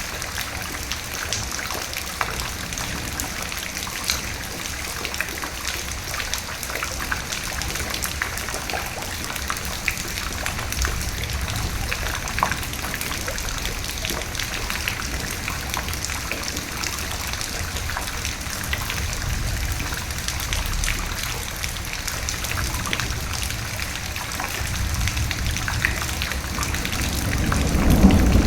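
Steady rain falling, with many small drop ticks on a surface. Low thunder rumbles roll in several times and swell louder near the end.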